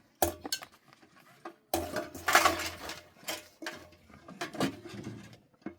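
Cooking pots and dishes clinking and knocking, with a louder, rougher clatter lasting about a second roughly two seconds in.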